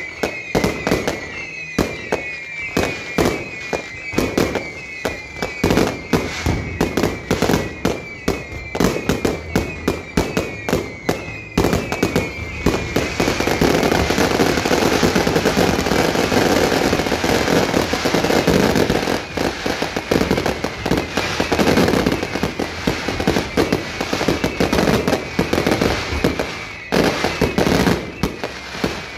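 Fireworks display: a rapid run of sharp bangs and crackling shell bursts, with a high falling whistle about once a second for the first dozen seconds. About twelve seconds in, the bangs merge into a dense, continuous barrage for several seconds. Separate bangs then resume.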